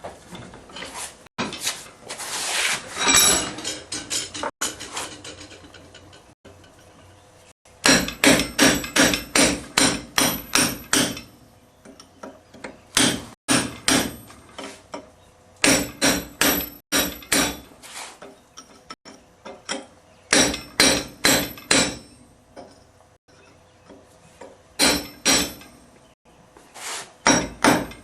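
Blacksmith's hammer striking hot titanium on an anvil, in runs of quick blows about three a second separated by short pauses, with a ringing metallic tone through each run. A few seconds of rough scraping-like noise come before the first run.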